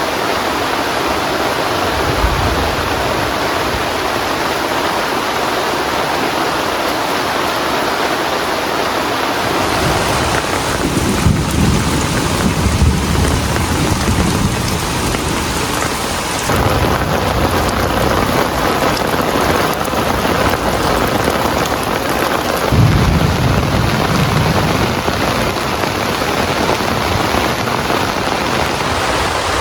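Heavy rain falling steadily, with low rolls of thunder swelling and fading, loudest a little after ten seconds in and again past twenty seconds.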